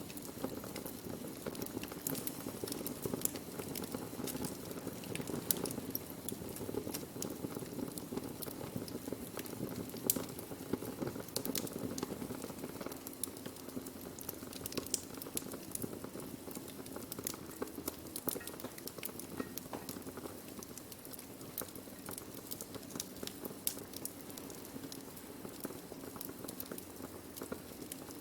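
Wood fire burning: a steady low rush of flame with many irregular sharp crackles and pops from the burning wood. One pop, about ten seconds in, is louder than the rest.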